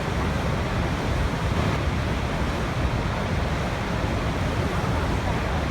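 A waterfall's water falling and rushing steadily, an even wash of sound weighted toward the low end.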